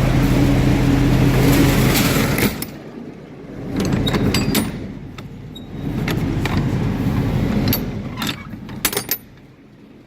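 Carrier Supra 644 truck refrigeration unit running with a steady low hum that drops away sharply about two and a half seconds in. Uneven swells of rumble follow, with a few sharp knocks and clicks near the end.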